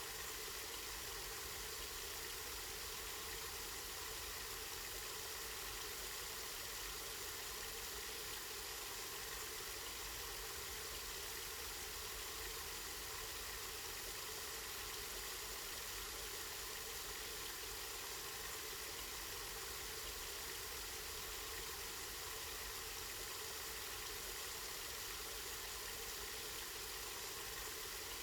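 Water running steadily from a spring, a continuous splashing hiss with a low rumble underneath.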